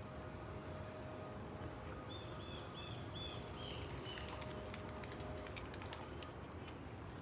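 A bird singing a short phrase of about six quick repeated notes, the last ones slightly lower, over a steady low background hum. A few faint clicks follow near the end.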